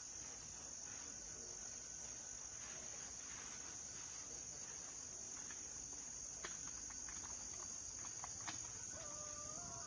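Faint, steady high-pitched insect chorus, a continuous buzzing trill, with a few faint clicks and a faint held tone joining near the end.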